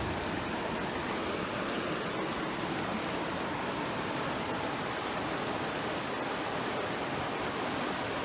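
Steady rushing of a creek, an even wash of water noise with no breaks.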